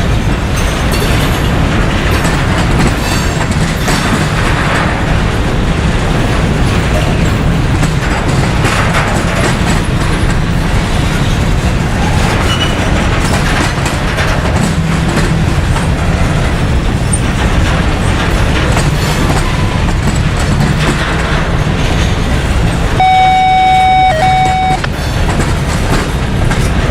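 Freight train rolling past close by, a steady loud rumble of wheels on rail. Near the end a horn sounds one steady note for about two seconds, broken once for an instant.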